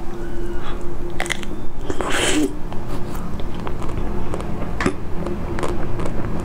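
Close-miked mouth sounds of biting and chewing frozen ice cream: short wet clicks and crunches, with one louder burst about two seconds in.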